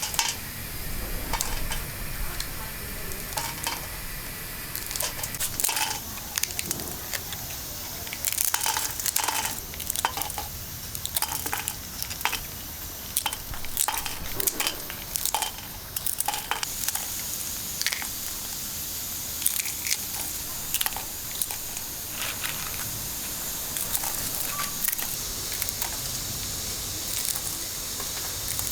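Food sizzling in a pan while it is stirred, with a spatula scraping and clinking against the metal many times. The sizzling hiss grows steadier about halfway through.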